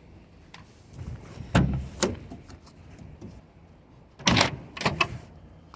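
Metal clunks and thuds from a van door being handled: two a little after the start, and another two about four seconds in.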